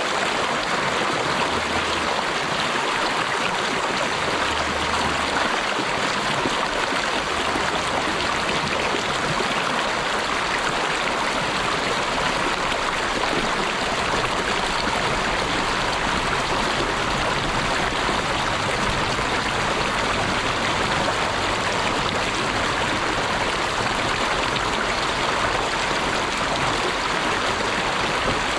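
Flowing water of a stream, a steady unbroken rush.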